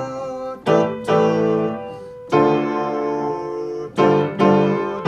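Piano chords in C major played as a highlife chord progression, five chords struck and held, each ringing on until the next.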